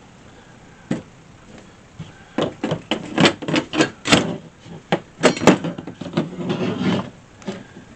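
A single knock, then a rapid, uneven run of knocks and clatters lasting about five seconds, as of hard objects being handled and moved about.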